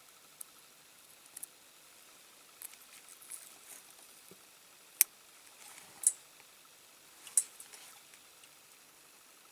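Light clicks, taps and rustles of small parts and a diecast model being handled, with three sharper clicks about five, six and seven and a half seconds in.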